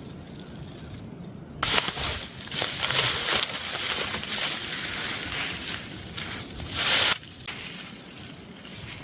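Plastic tube-tent sheeting crinkling and rustling as it is handled and bunched up. The crinkling starts about a second and a half in and stops sharply about seven seconds in.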